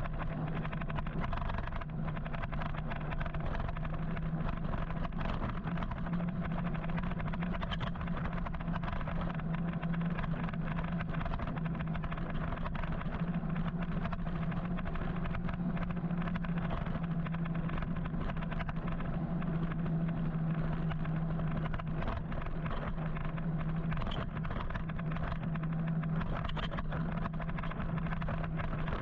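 Steady road and wind noise heard from a moving electric motorcycle in city traffic, with a constant low hum running under it.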